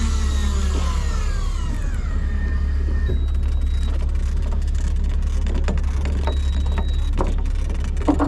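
Fishing boat's engine running steadily with a deep hum, with scattered light clicks and knocks on deck. A falling whine fades out in the first two seconds, and there is a sharp knock near the end.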